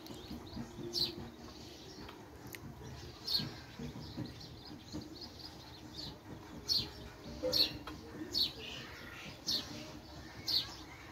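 Small birds chirping: a dozen or so short, high chirps at irregular intervals, louder and closer together in the second half, over a faint steady hum.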